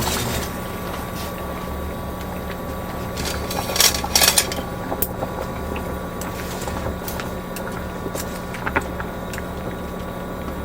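A vehicle engine running with a steady low hum, with a few sharp clicks about four seconds in.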